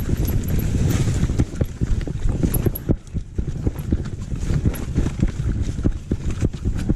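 Downhill mountain bike clattering over rough trail: a fast, irregular run of knocks and rattles from the tyres, chain and frame over a steady low rumble, easing briefly about halfway through.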